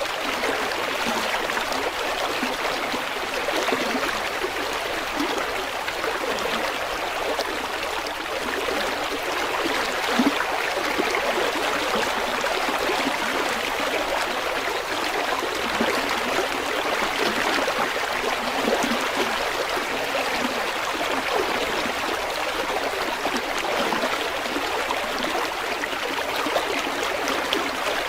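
River water flowing over stones: a steady rushing, babbling stream sound with small trickles and gurgles.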